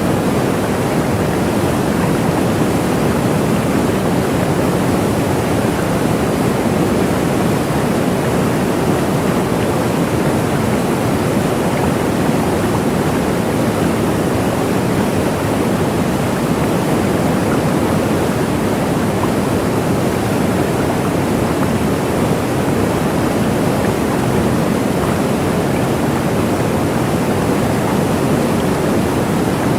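Waterfall: a steady, unbroken rush of falling water, full and low in pitch.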